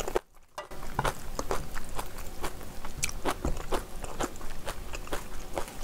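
Close-miked chewing and mouth sounds of a person eating, a quick irregular run of sharp clicks and smacks, after a brief silent gap near the start.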